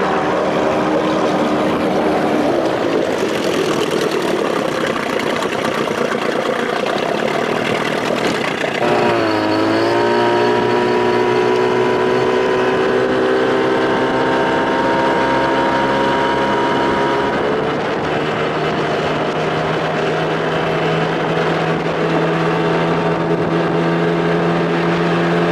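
Evinrude two-stroke outboard motor running under way on a boat, over a rush of wind and water. About nine seconds in its pitch dips briefly and climbs back, then holds steady; it is running slow, held back by weeds caught on the motor.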